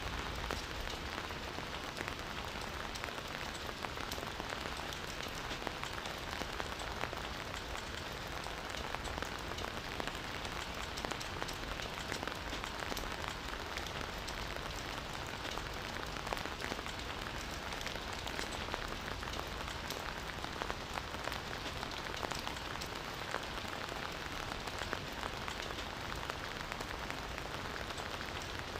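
Steady rain falling: an even hiss dense with countless small drop impacts, unchanging throughout.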